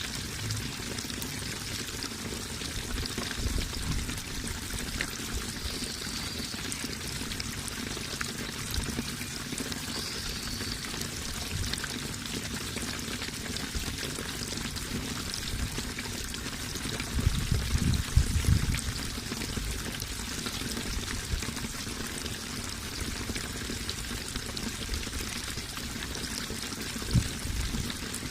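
Water running and splashing steadily, a continuous trickling rush with no music over it. A few louder, deeper gushes come about seventeen to nineteen seconds in, and another briefly near the end.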